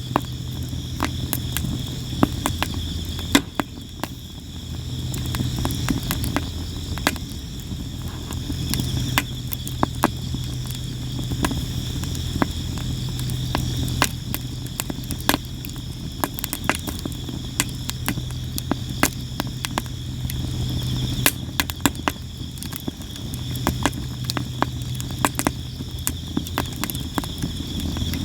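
Sawara cypress wood burning in a campfire, with irregular crackling and sharp pops throughout. Crickets chirp steadily behind it, and a low hum comes and goes.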